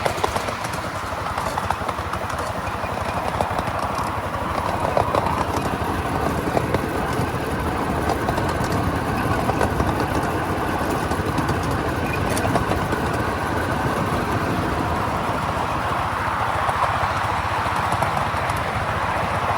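Miniature railway train running along the track, with a steady rapid clatter of wheels on the rails.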